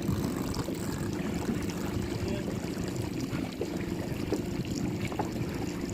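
Water trickling and lapping against a sailboat's hull under way, over a steady low rumble.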